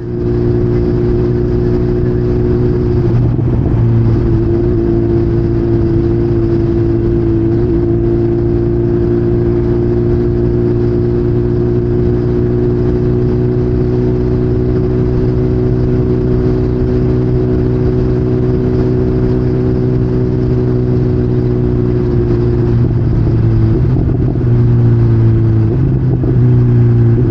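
2020 BMW S1000RR inline-four engine running through a full M4 aftermarket exhaust with a stage 1 tune, holding a steady engine speed, with a few brief dips and rises in pitch, mostly near the end.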